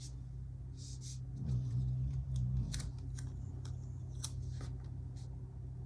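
Scissors snipping paper: several short, sharp snips with some paper rustle.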